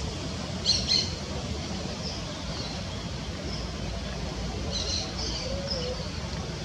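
Birds calling: two sharp, high chirps just under a second in, a few faint short notes after, and another quick cluster of high notes about five seconds in, over a steady low background rumble.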